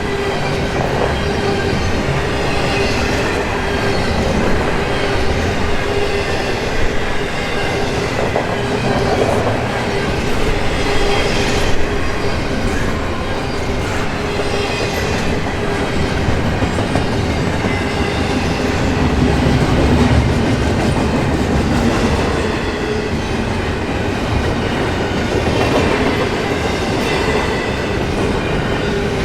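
Freight train of intermodal container cars rolling past, steel wheels clattering steadily over the rails with a constant ringing wheel squeal.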